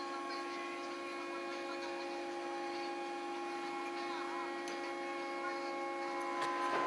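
Steady hum made of several fixed tones, from a running machine or electrical equipment, with light scraping and clicking starting near the end.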